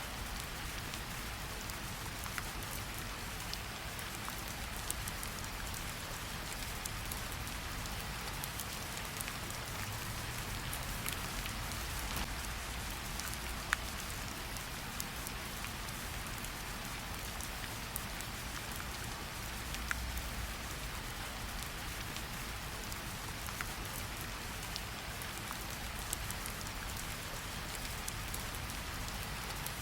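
Gentle rain falling steadily on tree leaves, a soft even hiss with scattered drops pattering and dripping.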